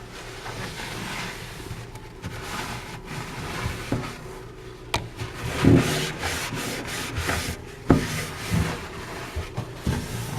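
Paper towel wiping and rubbing over the inside surfaces of a microwave, in uneven strokes, with a couple of light knocks about five and eight seconds in.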